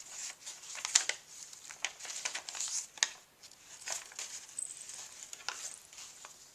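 Paper pages of a handmade journal being turned and handled, rustling and crinkling, with sharp page flicks about a second in and again about three seconds in.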